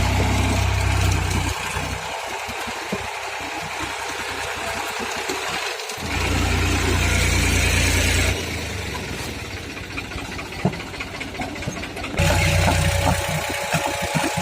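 Tractor engine working in mud, alternating between loud stretches of hard running and quieter running with some rattling and clicks. It rises to the louder pitch three times.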